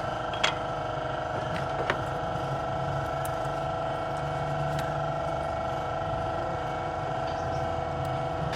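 A motor or engine running steadily with an even hum, with a few sharp clicks in the first two seconds.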